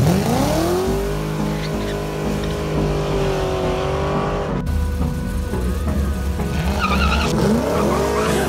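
First-generation Chevrolet Camaro SS V8 revving up hard as it launches, then held at high revs for a few seconds until the sound cuts off abruptly. After that a second car's engine revs up and down, with music coming in near the end.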